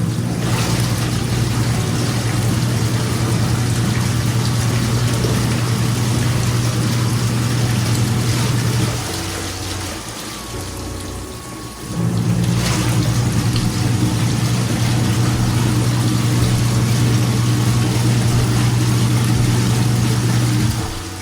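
W. Box KW8090H twin-tub washing machine running with water churning in the tub, its motor giving a steady hum. The motor stops for about three seconds roughly nine seconds in, then starts again.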